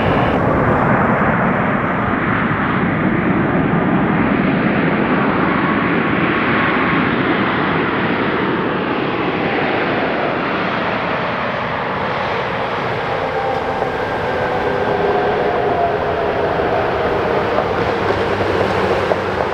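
Boeing 737 MAX 8's CFM LEAP-1B jet engines running loud and steady, a dense rush with whining tones that slide slowly down in pitch.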